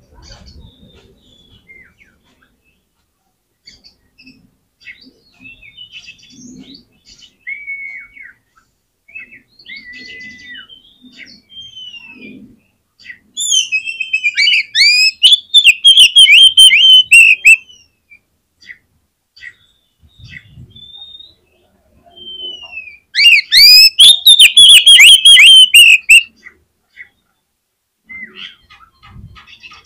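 Oriental magpie-robin (kacer) singing in full song: soft scattered whistles and chirps, then two loud bursts of rapid repeated notes, one of about four seconds around the middle and a shorter one later on.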